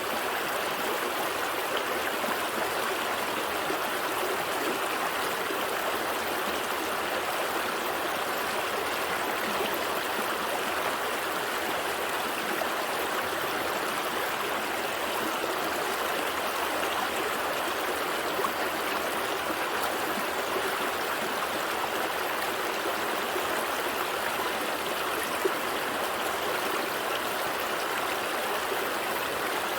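Gentle stream flowing steadily over rocks, an even rushing and trickling of water.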